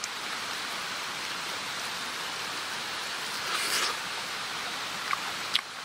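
Steady outdoor hiss like rain or running water. A short louder rustle comes about three and a half seconds in, and two sharp clicks near the end.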